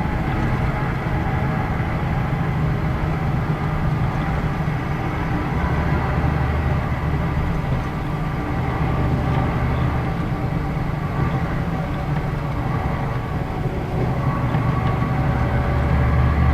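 Scania K113 city bus's diesel engine running under way, with road noise, heard from inside the bus. The low engine drone swells about six seconds in and again near the end as the engine pulls harder.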